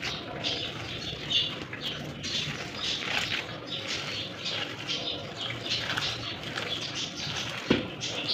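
Birds calling in the background: a patchy run of short calls.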